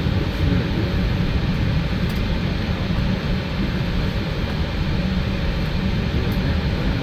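Steady cabin noise inside a Boeing 777-300ER on the ground during pushback and engine start: a low rumble with an even hiss over it.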